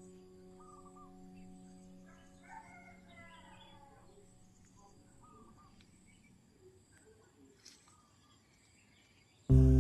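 A rooster crows once, about two and a half seconds in, over a ringing tone that fades away, with a few faint short bird calls. Loud music comes in suddenly near the end.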